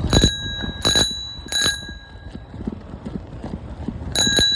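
Bicycle bell rung three times in the first two seconds, each ding ringing on, then rung rapidly again near the end.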